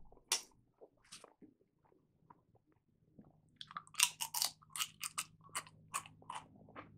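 Close-up eating sounds of a man chewing chili: a few short mouth sounds near the start, then from about three and a half seconds in a quick run of sharp, wet chewing smacks, about two or three a second.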